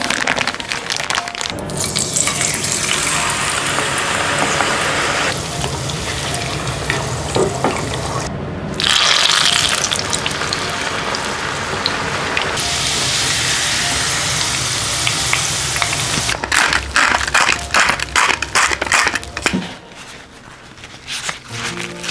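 Kitchen sounds in quick succession: water running or splashing, then cut potatoes deep-frying in a pot of oil with a steady sizzle, then a run of quick crackles near the end.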